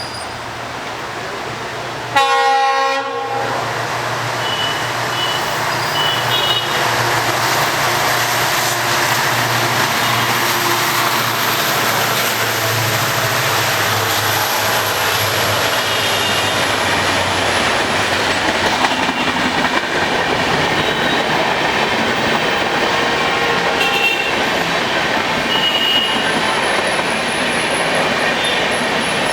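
A train locomotive sounds one short horn blast about two seconds in, then the train runs past with the steady noise of its wheels on the rails.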